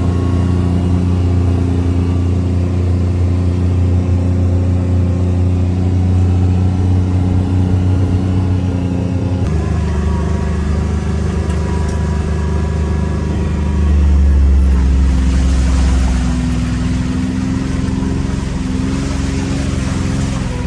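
A motor vehicle's engine and road noise, heard while driving, with a steady low drone. The sound changes abruptly about halfway through, and the engine gets louder for a couple of seconds near three-quarters of the way through, as it speeds up.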